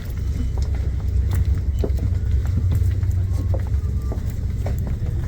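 Steady low rumble of a car ferry's engines heard from inside the passenger deck, with scattered small clicks and knocks over it.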